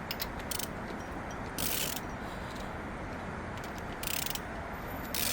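Ratchet wrench clicking while loosening the LQ9 V8's cylinder head bolts, with three short hissing bursts.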